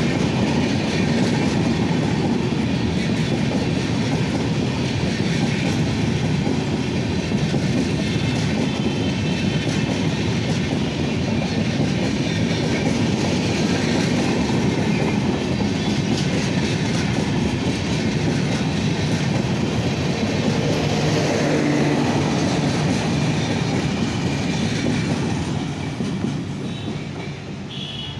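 Express train's passenger coaches running past at speed: a steady, loud rumble of wheels on the rails. It fades near the end as the last coach passes and the train draws away.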